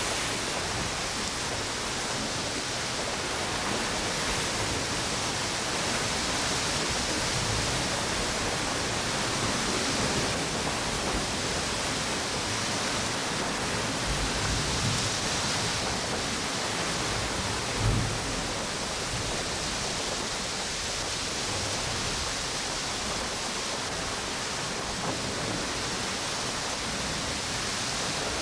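Surf and strong wind on a beach: a steady rushing hiss that swells and eases every few seconds, with low rumbles of wind buffeting and one brief louder low thump about two-thirds of the way through.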